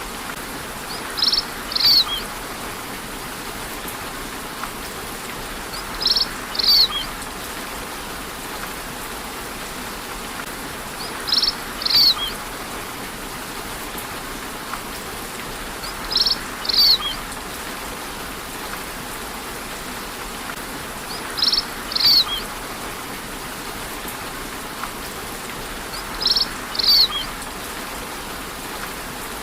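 Steady rain hiss with a bird's short, high two-note call repeated at even intervals about every five seconds, six times in all; the calls stand out above the rain.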